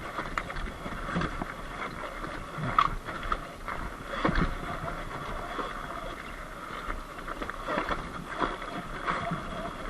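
Surron X Light Bee electric dirt bike riding up a dirt road: a steady whine from the electric motor and drivetrain over the noise of tyres on dirt and stones, with scattered knocks as the bike rides over rough ground.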